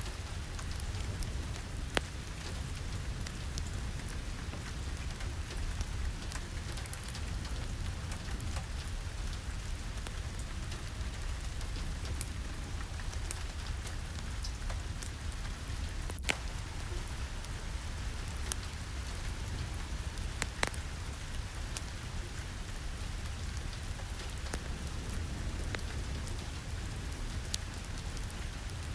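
Steady rain falling, over a low rumble, with scattered sharp ticks and pops.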